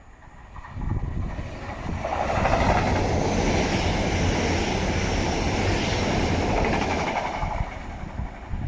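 A train passing on the line: a rush of wheel and rail noise with a low rumble, building over the first two seconds, holding for about five seconds, then dying away near the end.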